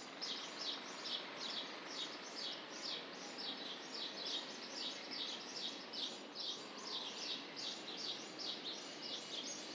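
A bird chirping over and over, about three short high chirps a second, over a low steady background noise.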